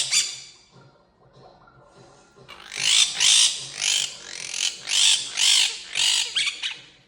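Quaker parrot (monk parakeet) squawking loudly: one harsh call right at the start, then after a pause of about two seconds a run of about eight harsh squawks, roughly two a second.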